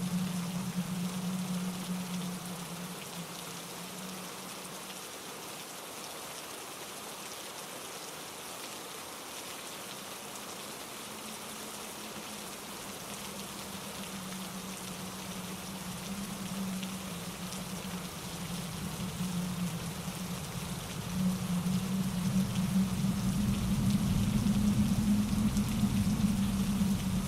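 Steady rain falling through trees, an even hiss with a low rushing underneath that eases off in the middle and swells again over the last several seconds.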